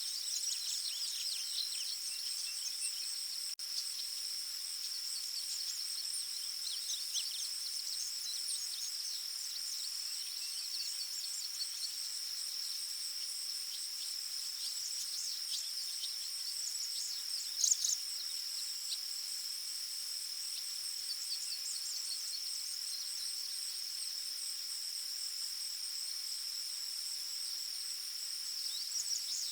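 Forest ambience: a steady, high-pitched chorus of insects such as crickets, with scattered short bird chirps over it, busiest in the first third and with one louder chirp a little past the middle.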